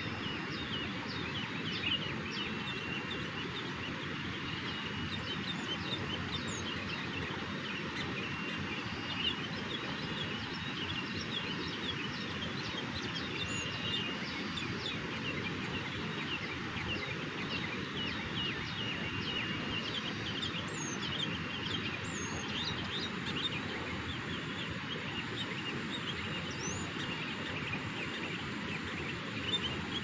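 Birds chirping: many short, high chirps and calls repeat throughout over a steady background hiss.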